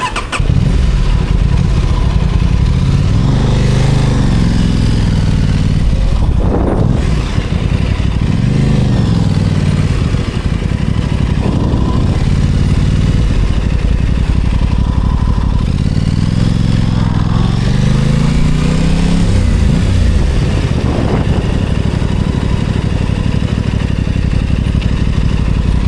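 Aprilia Tuono 660 Factory's parallel-twin engine running under way, its revs climbing and dropping several times, then holding steadier for the last few seconds.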